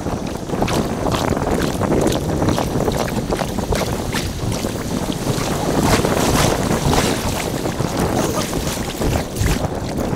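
Kayak paddling on a river in sped-up time-lapse audio: frequent quick paddle splashes and water noise, with wind rumbling on the microphone.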